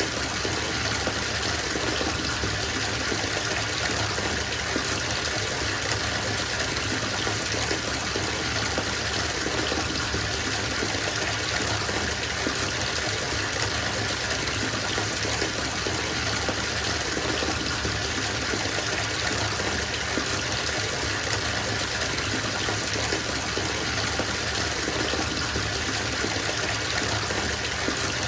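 Bathtub filling: water gushing steadily from the tap into the tub.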